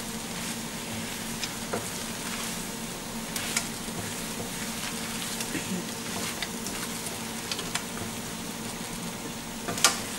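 Crab roast frying in oil in a stainless-steel pan with a steady sizzle while a wooden spatula stirs and turns it: the dry roasting stage, with no water added. Scattered light clicks of the spatula against the pan, and a sharper knock near the end.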